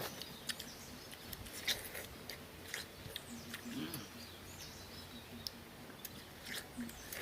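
Watermelon being bitten and chewed: scattered short crisp crunches and clicks, with birds chirping faintly.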